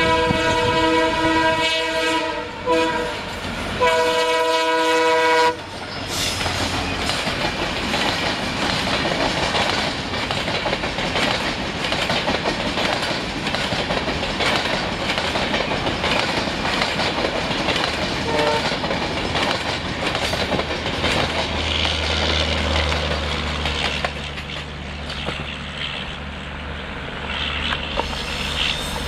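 WDP 4 diesel locomotive's multi-tone air horn sounding a long blast and then a shorter one. The train then runs past with wheels clattering over the rail joints for the rest of the stretch, and a low steady engine rumble comes in near the end.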